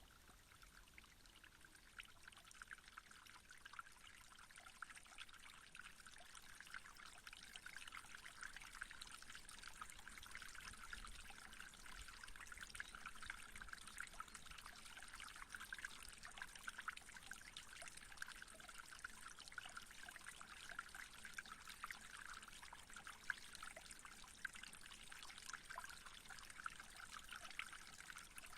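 Faint trickling, flowing water, like a small stream: a steady babble of many tiny bubbling ticks that grows a little louder over the first several seconds.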